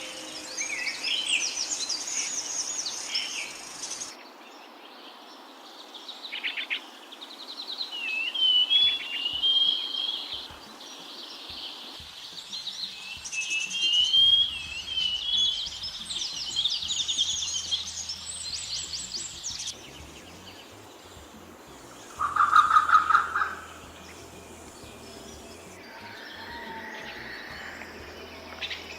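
Wild birds calling and singing: high chirps, rapid trills and warbled phrases from several different species, in spliced recordings that change abruptly every few seconds. About two-thirds of the way through, a loud, harsh call of about a second stands out as the loudest sound.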